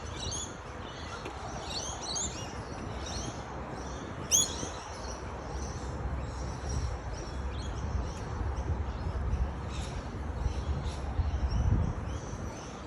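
Small birds chirping in quick, high, repeated notes, with one louder call about four seconds in, over a low rumble of wind on the microphone.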